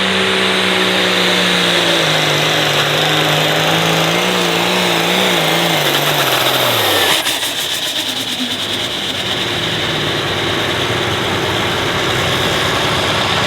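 International 1066 hot farm pulling tractor's diesel engine at full power hauling the sled: its pitch wavers, then falls steadily as the engine is pulled down under load, and the sound cuts off sharply about seven seconds in at the end of the pull. A steadier, quieter engine noise carries on after it.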